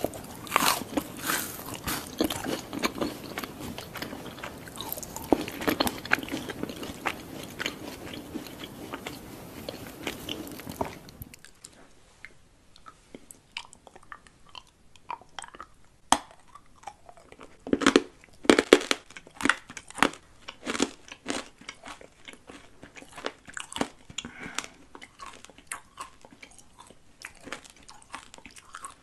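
Close-miked biting and crunching of a gold-leaf-covered rice crispy treat, dense and crackly for about the first eleven seconds. Then the sound drops abruptly to a quieter recording with sparse clicks and short crunchy bites, a loud cluster of them about seven seconds later.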